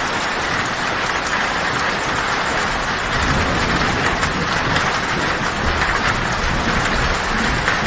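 Heavy rain falling steadily on a tin roof, with scattered sharper drop ticks on the metal. A low thunder rumble swells underneath about three seconds in.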